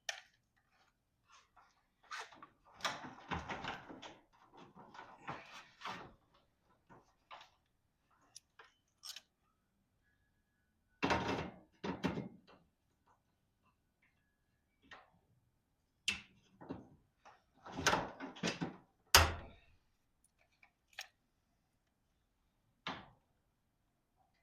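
Intermittent knocks, rattles and clanks of hand work on a sectional garage door's hardware, in separate bursts with pauses between, the loudest a sharp knock late on.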